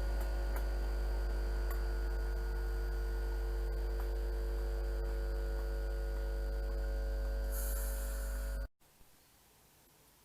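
Steady electrical hum with several steady tones over it, a short hiss near the end, then a sudden cut to near quiet with faint tones slowly rising.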